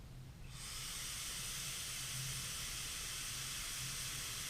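Steady hiss of a long draw on a Footoon Aqua Pro rebuildable tank atomizer as its coil fires, air rushing through the airflow and vapour sizzling off the wick. It starts about half a second in and lasts about four seconds.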